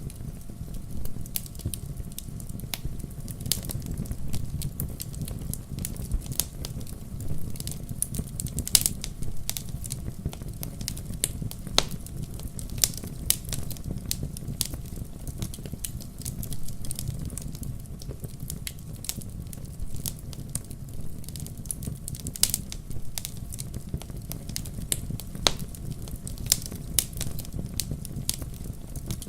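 Firewood burning in a fireplace: a steady low rumble of flames under frequent irregular sharp crackles and pops of the burning logs.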